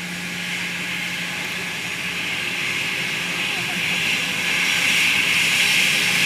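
Jet aircraft engine noise, a steady rushing sound that grows louder as the plane approaches.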